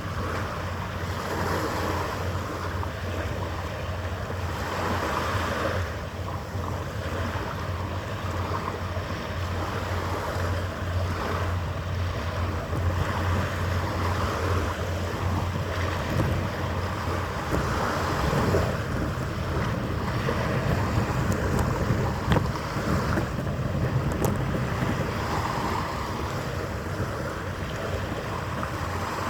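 Wind gusting on the microphone over the wash of harbour water, with a steady low hum underneath.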